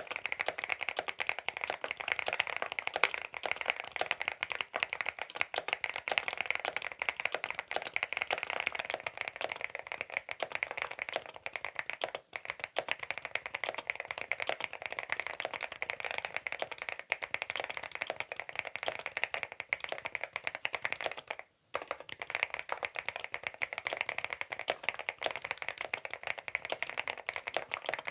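Fast, continuous typing on a CIDOO V87 aluminium-case tenkeyless mechanical keyboard with its stock linear switches: a dense clatter of keystrokes, broken by a brief pause a little before the middle and a short silent gap about three quarters of the way through.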